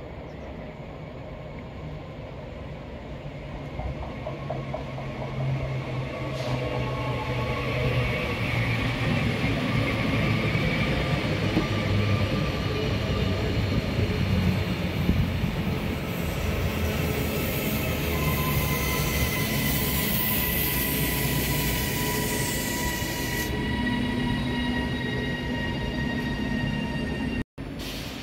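Northern electric multiple unit approaching and running past close by, growing louder over the first several seconds, with a high hiss and some wheel squeal in the middle and a falling whine near the end.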